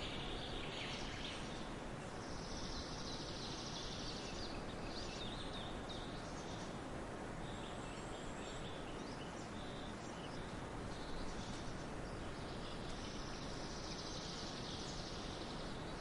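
Steady outdoor nature ambience, an even rushing noise, with high-pitched chirping from birds or insects rising in two stretches, about three seconds in and again near the end.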